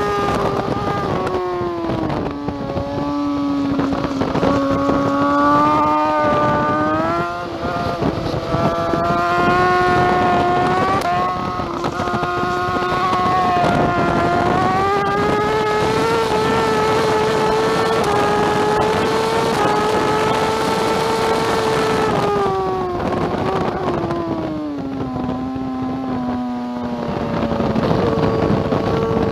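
2009 BMW S1000RR's inline-four engine at racing revs, with wind rush. The revs drop early on and again from about two-thirds of the way through as the bike slows for corners. In between they climb steadily under hard acceleration, and they rise again near the end.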